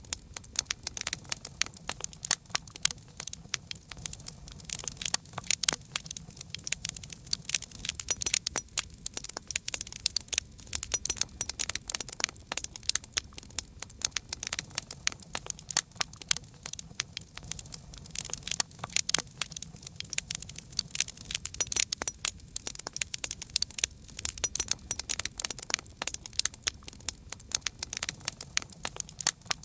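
Wood fire crackling: a steady stream of sharp pops and snaps of varying loudness over a soft low rumble of burning.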